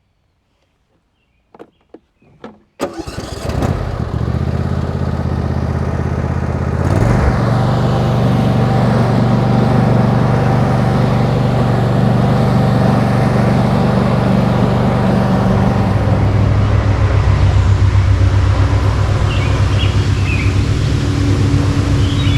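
A few faint clicks, then a riding lawn tractor's engine starts about three seconds in and settles into a steady run. Around seven seconds in its speed picks up a little and holds there.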